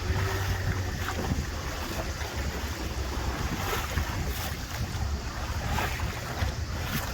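Tour boat's engine running with a steady low rumble, under wind buffeting the microphone and water rushing past the hull.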